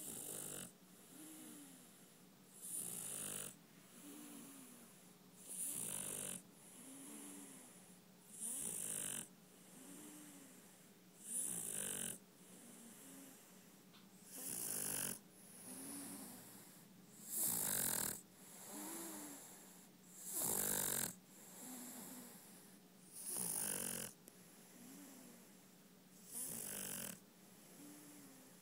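A Chinese Shar-pei dog snoring in its sleep: a loud snore on every breath, about one every three seconds, with a softer note rising and falling between them.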